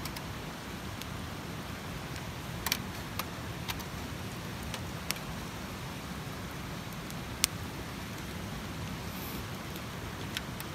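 Wood campfire burning with a steady hiss and low rumble, and scattered sharp crackles and pops, about six at irregular intervals.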